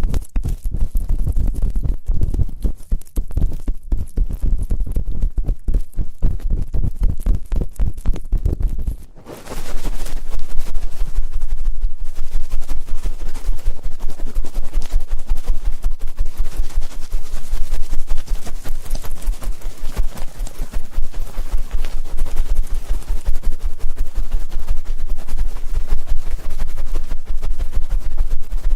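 Close-microphone ASMR sounds: fast, irregular tapping and scraping with a heavy low thud, changing about nine seconds in to a denser, brighter crackling scratching.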